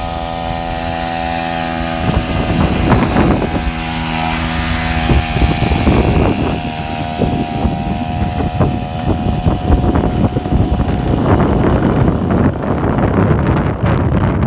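A small engine on a motorized bike running at a steady pitch, the tone fading after about five seconds as rough wind noise on the microphone and rumble take over.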